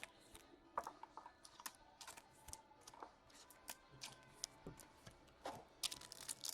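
Faint handling of trading cards: small clicks and slides as cards are flipped and moved, then a foil card-pack wrapper crinkling near the end.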